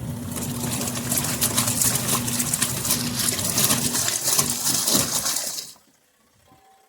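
Mini twin-tub washing machine running, its small motor humming under loud churning, splashing water in the wash tub, then cutting off abruptly near six seconds in.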